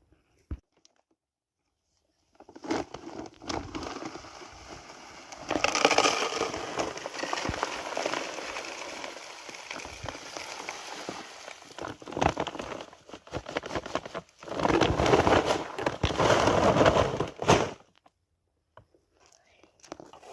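Dry plant material crackling and crinkling as it is handled, with dense small clicks that swell in louder stretches and then stop abruptly near the end.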